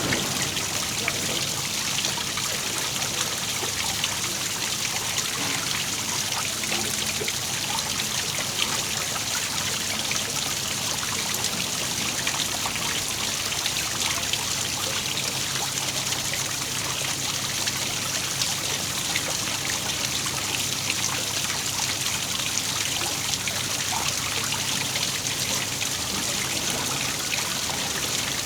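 Waterfall: water falling and splashing in a steady, even hiss with fine spattering.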